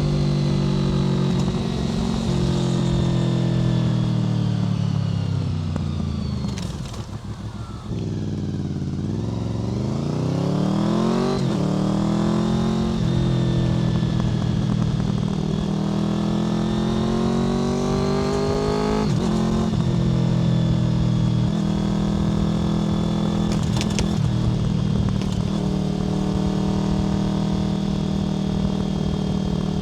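Honda VFR800 FI's V4 engine through a Black Widow aftermarket exhaust, heard from the moving bike. It runs steady at first, then the revs fall and the engine slows about five seconds in. It then accelerates through the gears, the pitch rising and dropping at gear changes about eleven and nineteen seconds in, before settling into a steady cruise.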